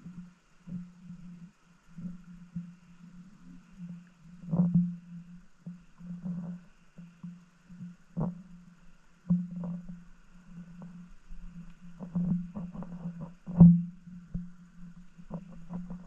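Muffled underwater sound picked up by a submerged camera: a low, unevenly pulsing rumble of moving water with irregular knocks and clicks, the loudest knock a little past the middle.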